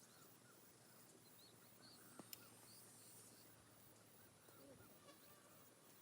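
Near silence: faint outdoor ambience with scattered small chirping calls, and two sharp clicks a little over two seconds in.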